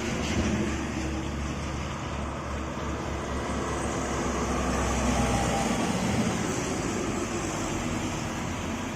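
Heavy diesel truck engine drone with tyre and road noise as a truck labours up a steep grade; the low engine note fades about six seconds in.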